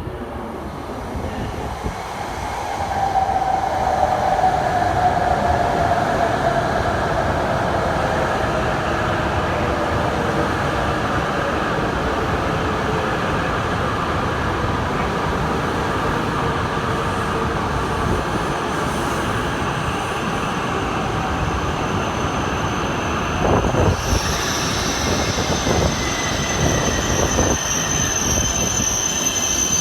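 Hokkaido Shinkansen train running on the line, with steady rail noise. A whine falls slowly in pitch over the first several seconds, and a high, thin squeal sets in during the last few seconds.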